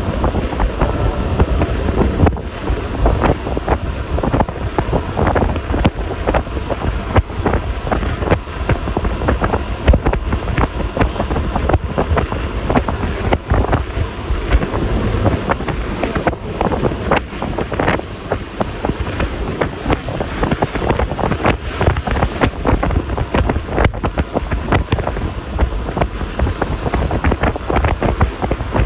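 Wind buffeting the microphone on a moving Yamaha Lexi LX 155 scooter, in steady uneven gusts, with the scooter's running and road noise underneath.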